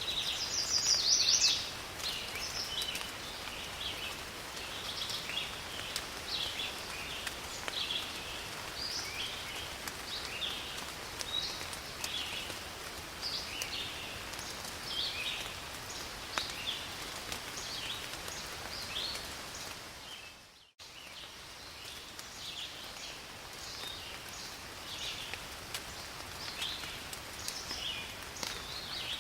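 Steady rain falling in a forest, with birds chirping again and again over it, one louder burst of calls about a second in. About two-thirds of the way through the sound fades out and cuts straight back in, like a loop being joined.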